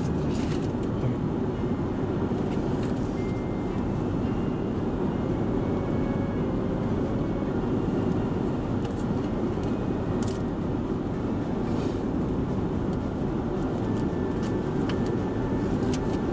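Steady low rumble of engine and road noise inside a Toyota Voxy minivan's cabin, with a few faint clicks.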